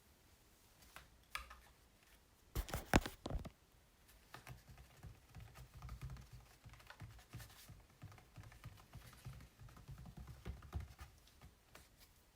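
Fingers tapping and scratching on an acrylic painting on canvas: a few light taps, then a loud cluster of quick taps about two and a half seconds in, followed by a long run of soft, rapid taps and scratches.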